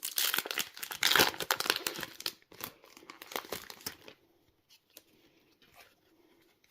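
Foil trading-card booster pack wrapper crinkling and rustling as it is handled and opened, heaviest in the first two seconds, thinning out and stopping about four seconds in, followed by a few faint ticks.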